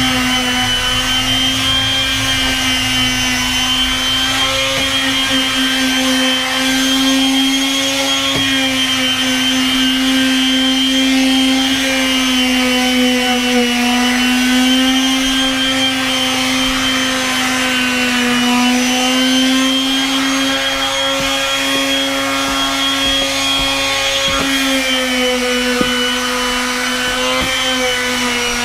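Makita random orbit palm sander running steadily while sanding deck boards, a constant motor hum whose pitch wavers slightly up and down.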